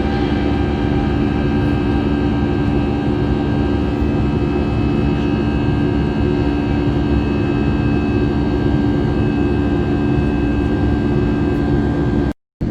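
Steady airliner engine and airflow drone heard from inside the passenger cabin, with a constant low hum and fainter higher tones. It cuts out completely for a moment near the end.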